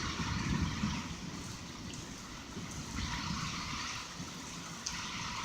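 Heavy rain falling steadily as a constant hiss, with gusty wind rumbling low and unevenly underneath.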